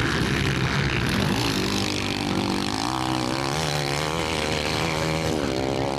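Motocross dirt-bike engines running hard on track, with one engine's pitch rising and falling repeatedly through the second half as it revs.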